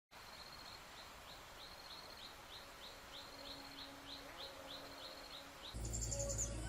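Outdoor ambience with a small bird chirping, short high notes repeated two or three times a second. Near the end the sound changes abruptly to a louder steady low hum.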